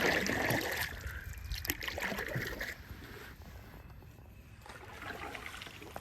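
Water trickling and lapping around a canoe as it is paddled, with a few light knocks; louder in the first half, then fading.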